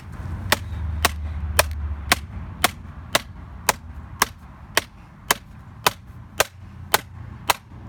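Repeated sharp strikes on an iBook clamshell laptop, about fifteen blows evenly spaced at roughly two a second, over a low hum.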